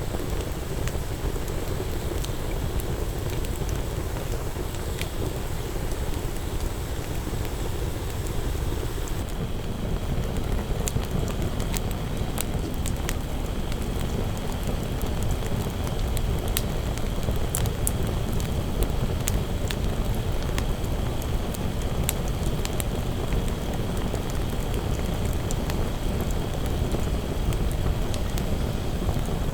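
Wood fire burning, crackling and popping with sharp snaps that come thicker from about a third of the way in, over a steady low rushing noise.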